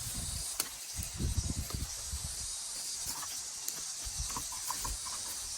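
Steady outdoor hiss, with low gusts of wind rumbling on the microphone about a second in and a few faint ticks.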